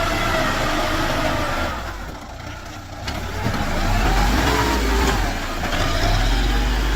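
Tractor diesel engine running and revving, its level dipping about two seconds in and picking up again a second later, with a pitch that rises and falls.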